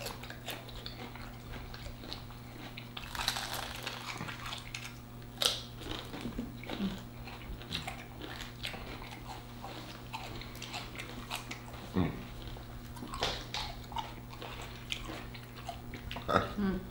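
Close-miked eating of fried chicken sandwiches: bites and chewing with scattered crunches and small mouth sounds, over a steady low hum.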